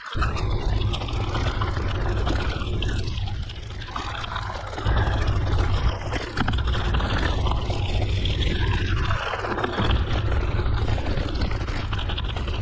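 Mountain bike rolling along a gravel forest road: wind buffeting the microphone as a loud, steady rumble, over a steady rough noise from the tyres on the gravel.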